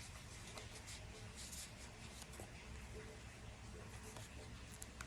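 Faint, intermittent scratching strokes over a low steady hum.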